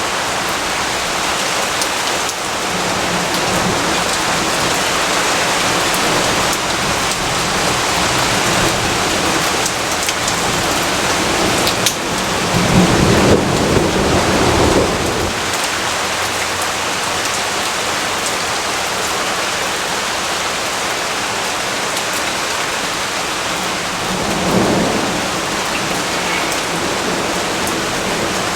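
Steady, heavy rainfall with a roll of thunder rumbling up about halfway through and dying away a few seconds later. A fainter rumble follows near the end.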